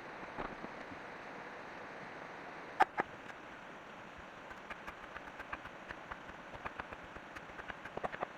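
Two sharp knocks about three seconds in, then a run of light, irregular taps and clicks that bunch up near the end, over a steady hiss.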